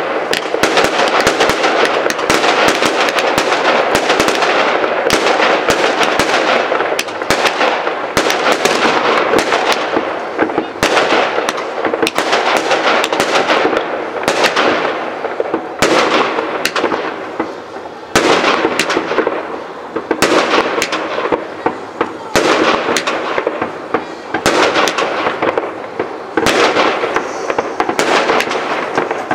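Fireworks display: aerial shells bursting in a rapid, near-continuous barrage of overlapping bangs and crackles, with a few brief lulls in the second half.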